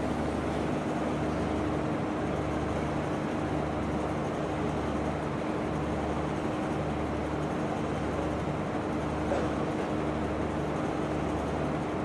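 Steady mechanical hum and hiss of a large room, with a constant low tone and a low throb pulsing about once a second; no voices.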